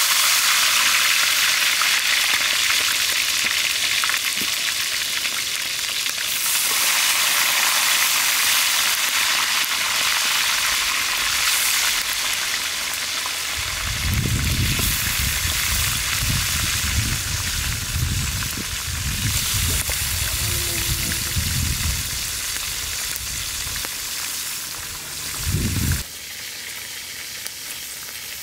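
Tokay gecko pieces deep-frying in hot oil in a steel wok, a loud, steady hissing sizzle, stirred with a metal ladle. Uneven low rumbles come and go through the middle, and the sizzle turns quieter near the end.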